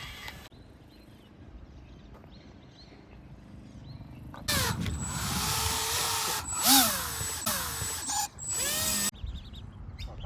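A small electric RC boat motor whines, its pitch rising and falling as the throttle is worked. It is faint at first. About halfway through it gets much louder for some four seconds with a rushing noise, then cuts off abruptly.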